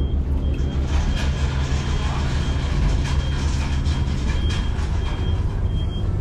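A large engine running at a steady low drone, with a short high-pitched beep repeating about every 0.7 seconds over it.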